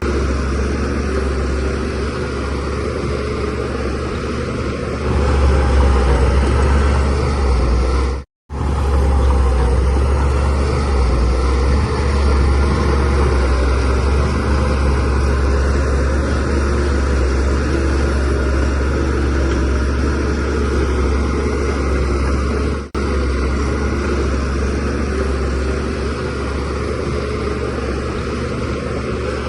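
DH17C3 bulldozer's diesel engine running steadily, growing louder about five seconds in. The sound cuts out completely for a moment about eight seconds in and dips briefly again a little after twenty seconds.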